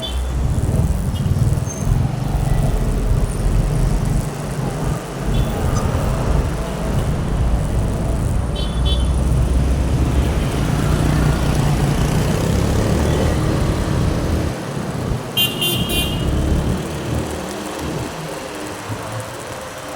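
Riding a motorcycle on the road: steady engine and wind rumble on the microphone, with two short high-pitched horn toots, about eight seconds in and again around fifteen seconds.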